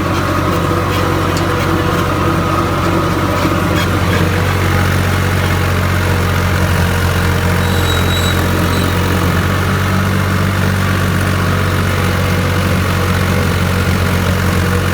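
Farm tractor's diesel engine running steadily at an even speed.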